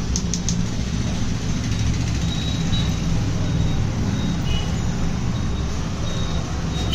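A steady low engine rumble, with a few faint short high tones in the middle.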